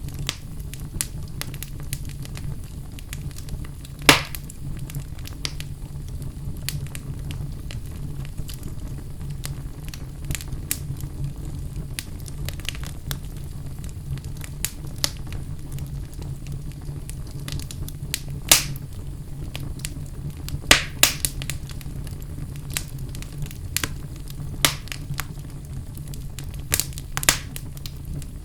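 Wood fire burning in a fireplace: a steady low rumble of the flames, with frequent small crackles and a few louder pops.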